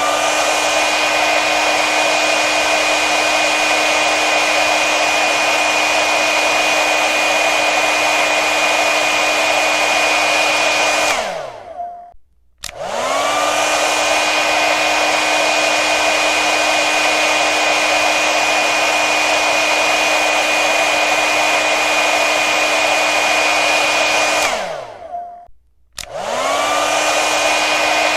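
Hand-held hair dryer running, a steady rush of air with a motor whine. It is switched off about 11 seconds in and winds down, then comes back on with the whine rising to speed. It is switched off and on again in the same way near the end.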